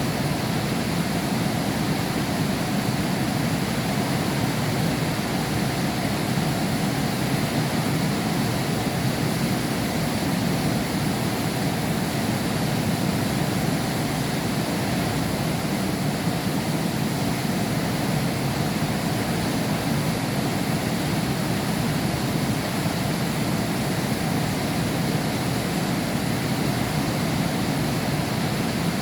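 Heavy rain pouring steadily, a constant even rush with no let-up.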